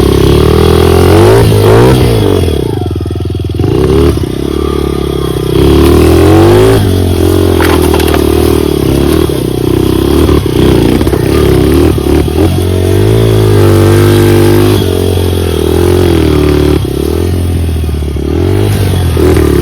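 Dirt bike engine being ridden hard, its pitch climbing and falling again and again with the throttle and gear changes, with short throttle-offs in between.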